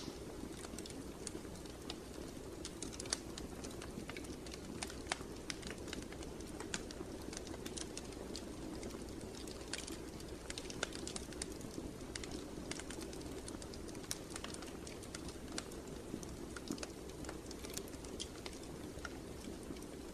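Wood fire in a fireplace crackling, with irregular sharp pops and snaps over a steady low rush of burning.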